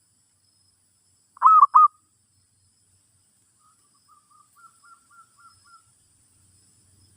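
Zebra dove cooing: two loud notes about a second and a half in, then a softer run of short, quick coos at the same pitch.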